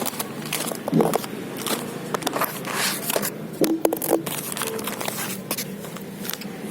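Close handling noise: irregular rustling, scraping and small clicks, as of a crayon box and its packaging being handled.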